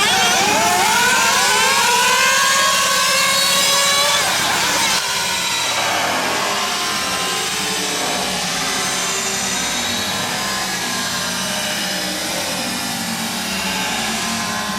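Small nitro engines of radio-controlled cars running at high revs, their pitch rising and falling as they accelerate and back off. About five seconds in the sound changes abruptly to a steadier, fainter buzzing whine.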